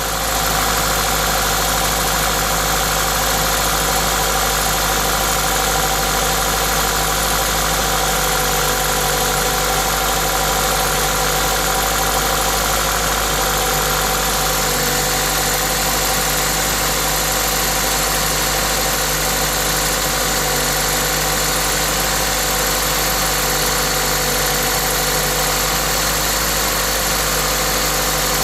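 Toyota 2ZZ-GE 1.8-litre four-cylinder engine idling steadily, with a hiss from its aftermarket induction kit. The owner considers it the engine's normal noise.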